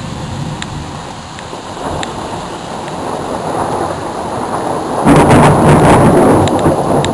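Thunder rumbling and slowly building, then a loud crash of thunder about five seconds in that keeps rumbling.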